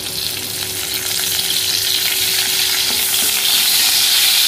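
Pandan leaves and green chilli sizzling in hot coconut oil in a cast-iron kadai, stirred with a wooden spatula; the frying hiss grows steadily louder.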